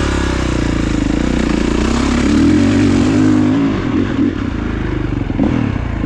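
Kawasaki KX450 dirt bike's four-stroke single-cylinder engine running under throttle while being ridden. The revs climb about two seconds in and ease off again after about three and a half seconds.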